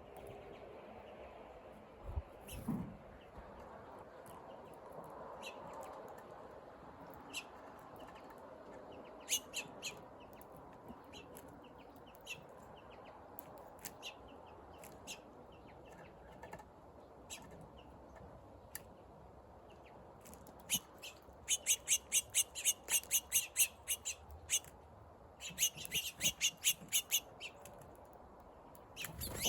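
Small bird chirping: scattered single high chirps, then two rapid runs of sharp chirps, about five a second, beginning about twenty seconds in and again a few seconds later.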